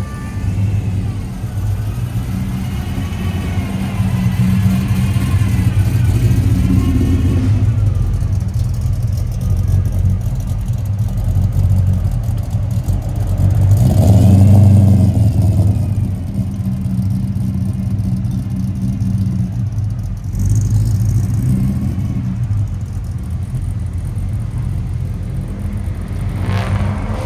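Car engines rumbling as show cars drive out one after another, with the engine pitch rising and falling as they rev. It is loudest about halfway through, as one car revs harder going past.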